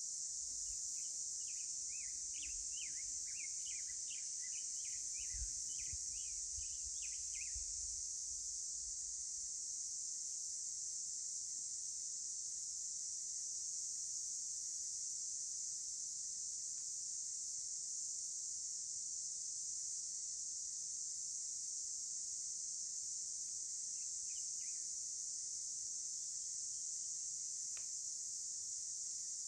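Outdoor natural ambience: a steady, high-pitched chorus of insects such as crickets runs throughout. Over it a bird gives quick runs of chirps for the first several seconds, then briefly again about three quarters of the way in and near the end.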